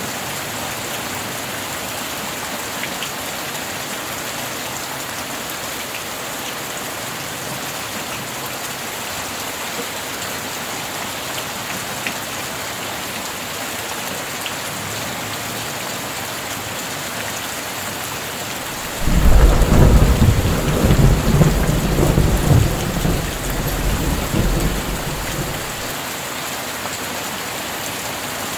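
Steady rain, with a loud clap of thunder breaking out about two-thirds of the way in that rumbles for several seconds and dies away.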